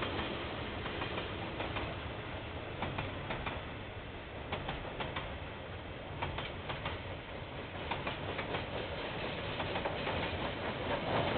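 Train rolling past with a steady rumble, its wheels clicking in groups over the rail joints, heard through a security camera's microphone.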